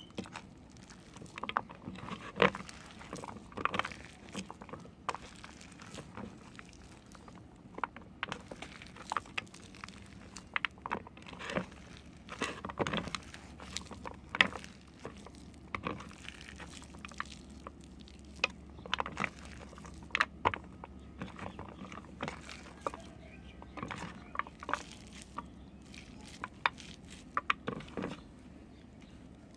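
A knife cutting and carving into a bar of hard soap, making irregular crunchy clicks and crackles, several a second in places and with short pauses.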